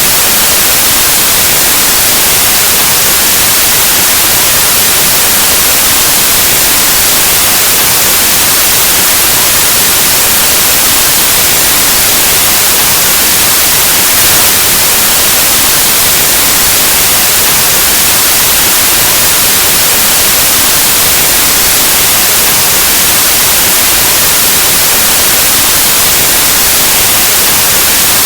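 Loud, steady white noise: a constant static hiss spread evenly across the whole range, like an untuned analog TV or radio.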